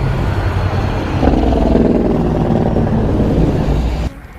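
Road traffic: a motor vehicle's engine running as it passes close by, with a steady low rumble. It cuts off suddenly near the end.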